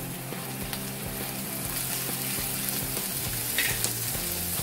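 Chopped onion and green bell pepper sizzling in hot oil in a frying pan on high flame, with a wooden spatula stirring them about.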